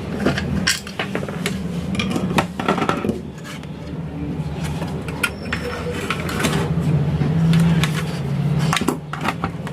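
Clicks and light clatter of a small loudspeaker and tools being handled on a workbench, over a steady low hum.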